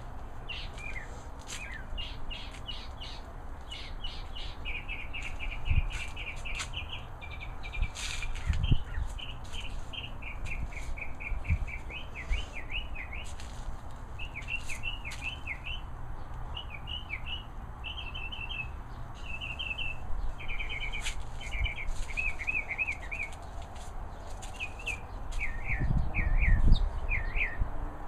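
Small songbirds chirping and singing: quick runs of repeated high notes and short trills, on and off throughout. A low rumble swells near the end.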